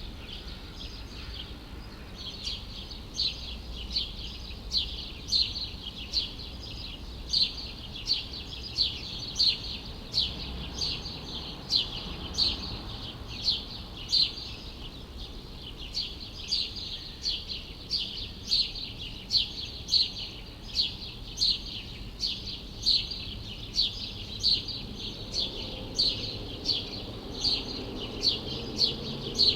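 A bird chirping over and over, short high chirps a little more often than once a second, over a steady low hum of city background noise.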